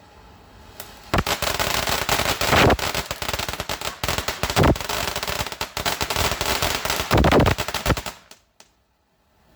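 Firework going off: a fast string of crackling bangs for about seven seconds, with three louder surges along the way, then it stops abruptly.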